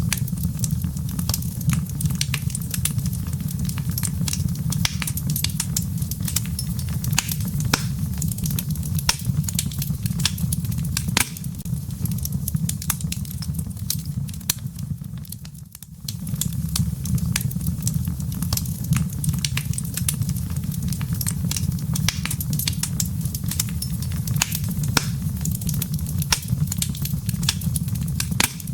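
Wood fire crackling in a fireplace, with many sharp pops and snaps over a steady low rumble. The sound dips briefly about sixteen seconds in.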